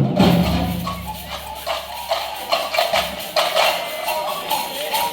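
Samba band percussion playing a rhythm. The deep low drum drops out about three seconds in, leaving the lighter, higher percussion hits going on.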